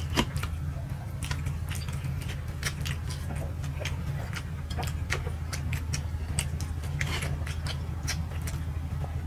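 Eating sounds: wet mouth clicks and smacks from chewing soft rice cakes (chitoi pitha), a few irregular clicks a second, over a steady low hum.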